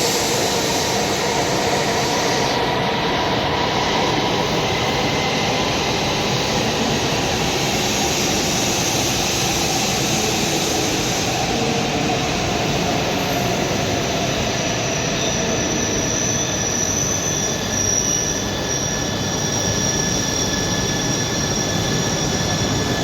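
E5 series Shinkansen train running: a steady rumble and rushing noise of wheels and air, with faint high whining tones, unchanged throughout.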